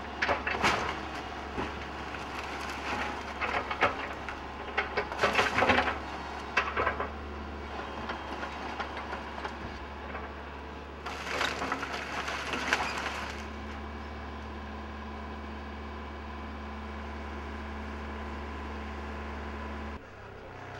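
Excavator tearing down a building: several bursts of cracking, splintering and crashing as the structure breaks, over the steady drone of the machine's engine.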